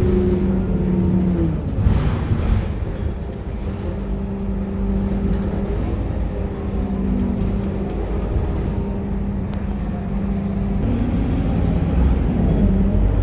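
Scania K230UB single-deck city bus's five-cylinder diesel engine and drivetrain running. The engine note drops about a second and a half in, with a short hiss just after, holds steady, then rises again near the end as the bus picks up speed.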